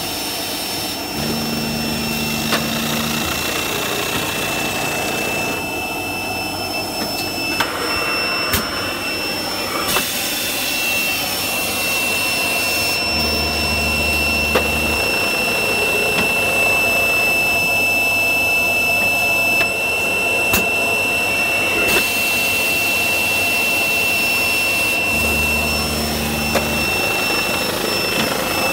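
Pneumatic seed-sowing machine running: a steady hiss and constant high whine from its air system, with scattered clicks. A low hum comes in for about two seconds roughly every twelve seconds.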